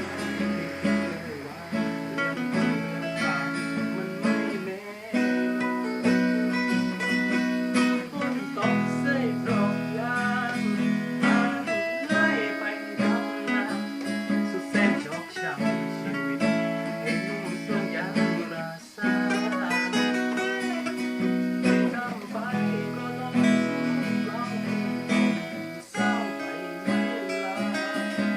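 Music: acoustic guitar playing, plucked and strummed.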